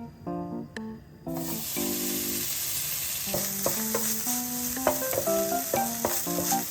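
Food sizzling as it fries in a pan, the sizzle starting about a second in, under background music with light keyboard notes.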